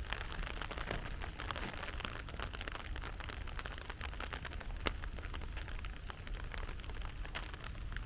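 Heavy rain falling, a dense patter of many drops striking close by, with one sharper tap about five seconds in.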